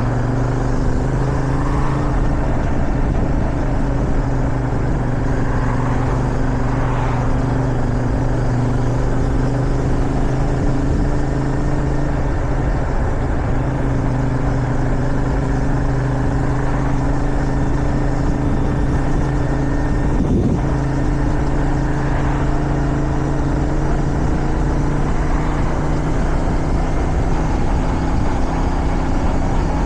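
Motorcycle engine, a 450SR sport bike, running at a steady cruising pitch, with wind rushing over the microphone. There is a brief break in the engine note about two-thirds of the way through.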